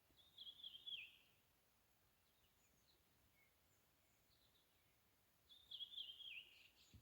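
A small songbird singing two short phrases about five seconds apart, each about a second long and falling in pitch, with faint chirps between over a quiet, still background.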